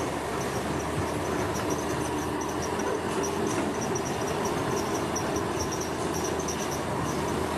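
Heavy construction machinery running steadily, a constant mechanical drone with a rapid, high-pitched chirping over it.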